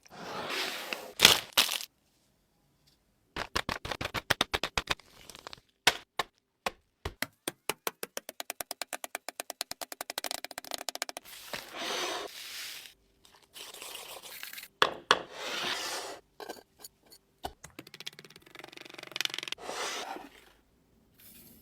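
Kitchen sounds from baking preparation, cut together: sharp clicks and taps, scraping and rustling noises, and a long run of quick, regular taps that speed up from about three seconds in to about eleven seconds in. There is a silent gap near the start.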